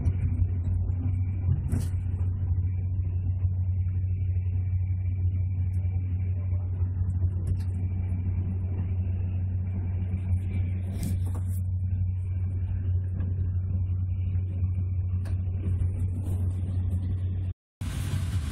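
Steady low rumble of a passenger train running at speed, heard from inside the carriage, with a few faint clicks. It cuts off abruptly near the end and gives way to a different, uneven interior sound.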